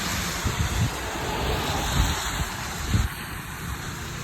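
Wind buffeting the phone's microphone, a steady rushing noise with a few low rumbling gusts about a second, two seconds and three seconds in.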